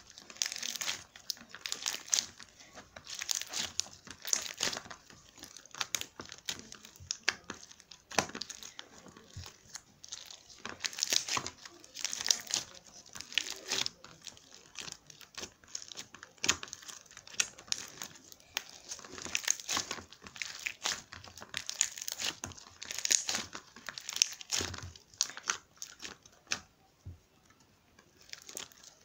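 Irregular crinkling and crackling, in quick runs of many small crackles with short pauses between.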